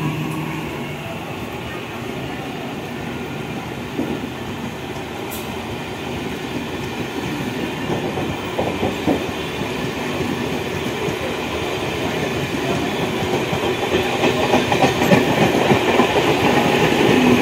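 Passenger train coaches rolling along the track, a steady rumble with the clicking of wheels over rail joints, growing louder over the last few seconds.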